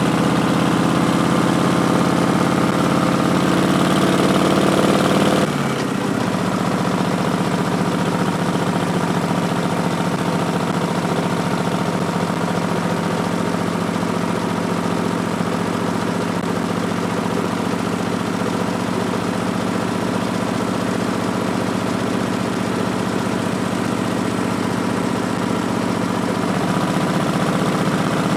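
Harley-Davidson Street Bob's Milwaukee-Eight 107 V-twin running through Vance & Hines Twin Slash slip-on mufflers, steady at first, then dropping suddenly in pitch about five seconds in and running lower and steady, picking up a little near the end.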